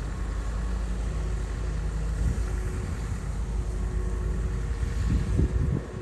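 Komatsu bulldozer's diesel engine running steadily, louder and rougher near the end.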